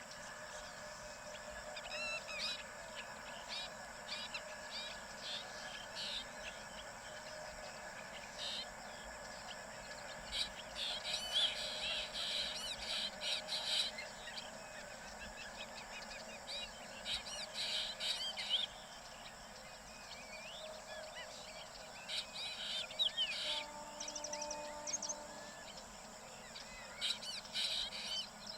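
Small birds chirping and twittering in repeated bursts, with quieter calls between, over a faint steady background hum.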